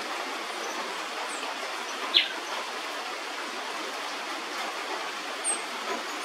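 Steady hiss of rain falling on forest foliage. About two seconds in, a single sharp bird call slides downward and is the loudest sound, and a few faint high chirps come and go.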